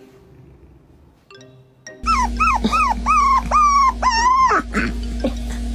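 A dog whining and yowling in a run of about seven rising-and-falling cries, starting about two seconds in, the later cries drawn out longer.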